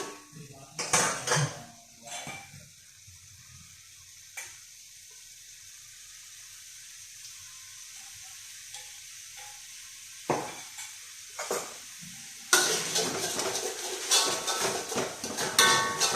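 Metal spatula clanking and scraping against a pan while fried rice is stirred over a faint steady sizzle. There are a few separate clanks at first, then a long run of fast continuous scraping and clatter in the last few seconds.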